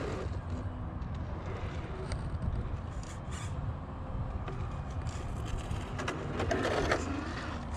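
Radio-controlled crawler truck driving over rough ground: its electric motor and gear drive running with tires scraping over dirt and rock, with a louder scrape a little before the end.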